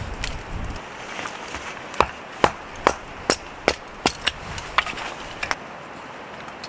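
A run of about eight sharp knocks, roughly two a second, from something being struck repeatedly.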